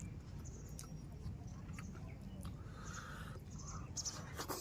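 Close-up chewing and mouth sounds of someone eating, with scattered short crunchy clicks, over a steady low hum.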